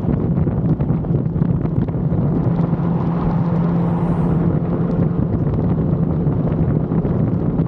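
Inline-four sportbike engine running at a steady, unchanging throttle while riding, with wind buffeting the action-camera microphone.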